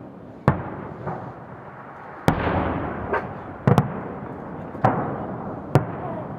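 Aerial fireworks shells bursting in a large display: about five sharp bangs, one of them a quick double, each trailing off in a rumbling echo.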